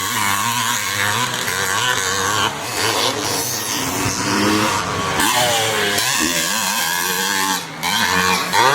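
Several vintage motocross bike engines revving on a dirt track, their pitches rising and falling as the riders work the throttle and shift, with a few short throttle cuts.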